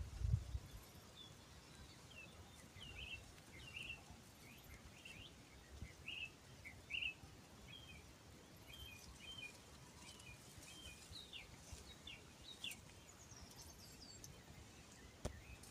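Birds chirping faintly in a quick run of short, high calls that fade out near the end.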